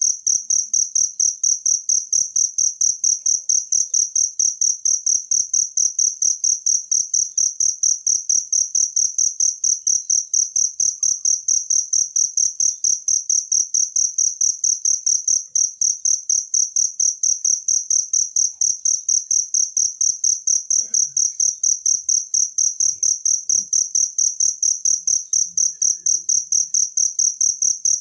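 Cricket chirping steadily: a loud, high-pitched chirp repeated evenly about two to three times a second.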